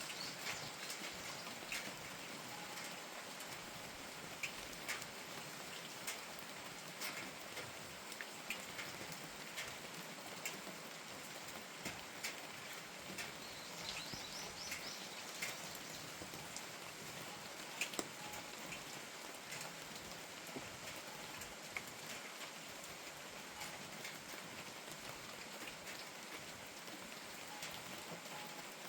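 Steady rain falling, with scattered louder drops ticking irregularly over the hiss.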